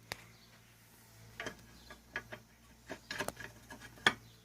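Irregular small metal clicks and taps from engine parts being handled as the clutch side case is fitted back onto a Honda Dax ST70 engine, with the sharpest knock near the end.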